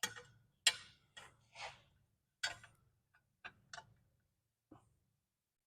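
A string of sharp clicks and light knocks, about eight over five seconds, as the strip of panel steel is handled and set in place for bending.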